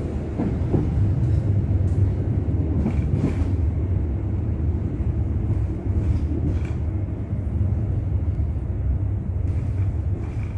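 Passenger train running at low speed, heard from inside a coach: a steady low rumble with a few scattered clicks from the wheels.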